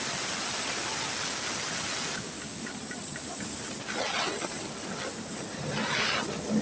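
Steady hiss of a high-pressure cleaning jet, with a constant high whistle in it; it thins about two seconds in, and flares louder briefly about four and six seconds in as the spray moves.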